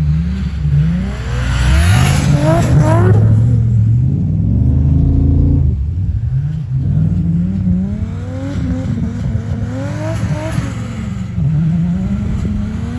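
Turbocharged 2JZ straight-six of a tuned Toyota Supra MK4 revving hard under load, its pitch climbing and dropping again and again as the throttle is worked.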